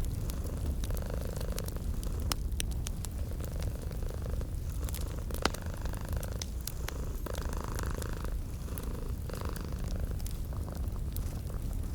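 A domestic cat purring steadily, a low pulsing rumble, over the scattered sharp pops and crackles of a wood fire.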